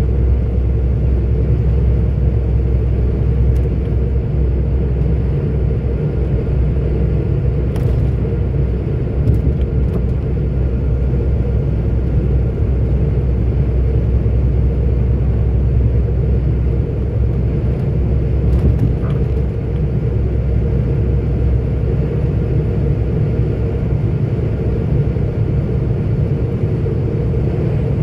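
Steady low drone of a 44-ton articulated truck's diesel engine and road noise, heard from inside the cab while driving, with a few faint clicks.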